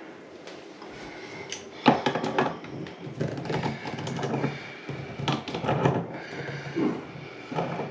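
Clicks, knocks and clatter of hard metal and plastic faucet parts being handled and fitted, as a bathroom faucet cartridge is put back together. The sounds come in irregular bunches from about two seconds in.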